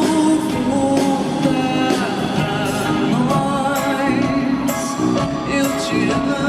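Live band music with a singing voice over a steady drum beat and cymbals.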